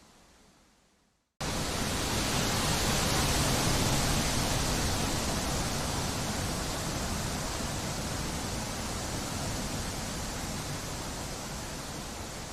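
A quieter rushing sound fades out to silence about a second in, then strong wind noise cuts in abruptly: a loud, steady rushing that eases off slightly toward the end.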